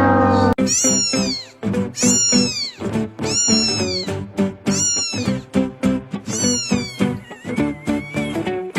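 A cat meowing five times, about a second apart, in high calls that rise then fall, over background music with a steady beat.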